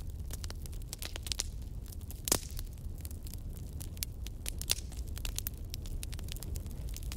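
Fire crackling: irregular sharp snaps and pops over a steady low rumble, with one louder pop just over two seconds in.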